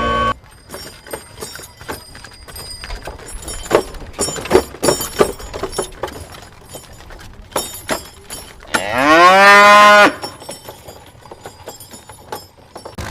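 A bull lows once about nine seconds in: a long moo that rises, then holds steady. Before it come light, scattered clicks and knocks of small objects being handled.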